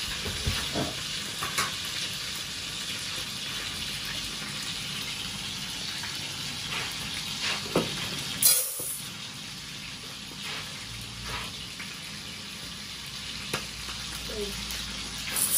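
Marinated conger eel pieces sizzling steadily as they fry in a pan. About eight seconds in comes a short, loud clatter as dry rice is poured into a rice-cooker pot.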